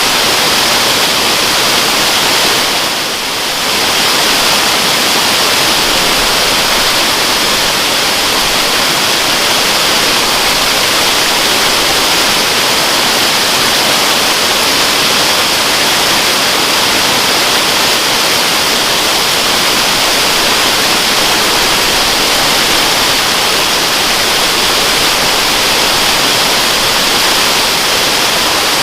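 Waterfall rushing in a steady, even hiss, briefly dipping a little in level about three seconds in.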